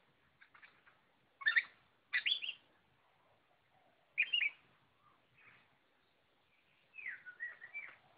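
Oriental magpie-robin (kacer) singing in short, varied phrases of sliding notes with pauses between them. A longer run of notes comes near the end.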